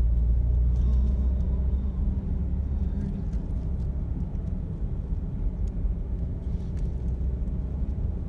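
Steady low rumble of a vehicle's engine and tyres heard from inside the cabin while driving, a little louder for the first two seconds.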